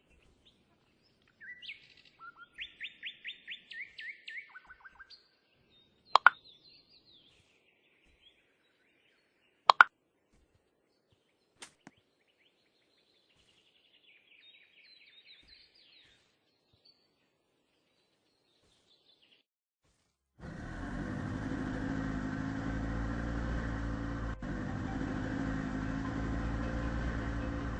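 Bird-like chirping trills of rapid repeated high notes, broken by a few sharp clicks. About twenty seconds in, a steady low hum starts and carries on.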